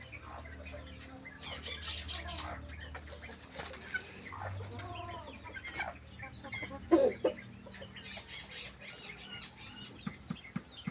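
Pet birds flapping their wings, with scattered short calls and a run of high-pitched chirps near the end.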